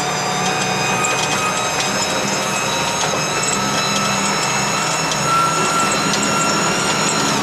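'Veter' all-terrain vehicle running under acceleration: a steady engine drone with a high-pitched whine over it.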